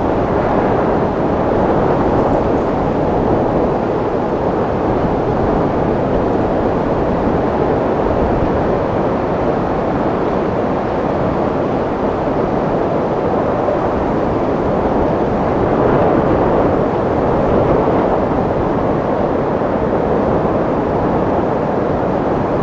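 Wind sound effect: a steady, dense rush of wind, low to mid in pitch, with slow gentle swells and no whistling tone.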